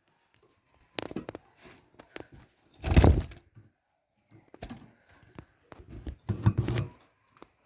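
Irregular bursts of clattering and scraping, about four clusters with the loudest around three seconds in, as a bird aviary is cleaned by hand.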